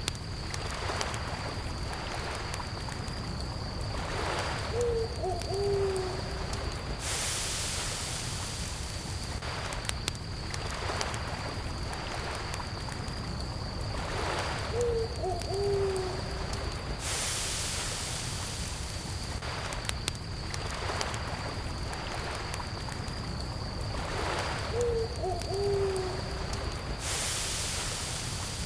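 Campfire crackling with scattered pops over a low rumble, under a steady high cricket trill. An owl hoots about every ten seconds, and a wave washes in shortly after each hoot.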